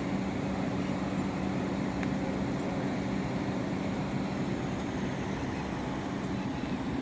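A vehicle engine idling, heard as a steady low hum over a constant hiss of background noise; the hum fades a little near the end.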